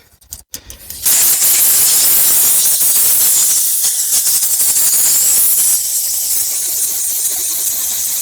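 Compressed-air blow gun blasting in a loud, steady hiss, starting about a second in after a few small clicks and easing slightly a little before the end.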